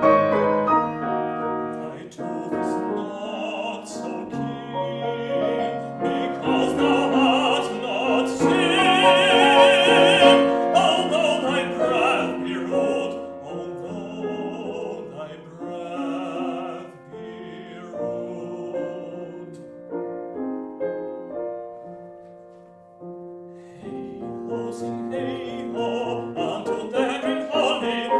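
Tenor singing a classical art song with piano accompaniment, the voice carrying a wide vibrato. Near the end the music thins to quiet piano for a moment, then voice and piano come back in more strongly.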